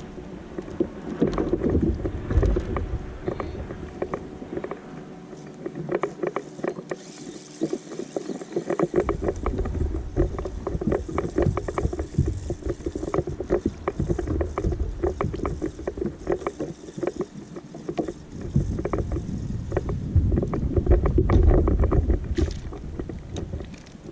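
Small fishing boat under way on the water, a steady motor hum with a low rumble and many short knocks and slaps against the hull.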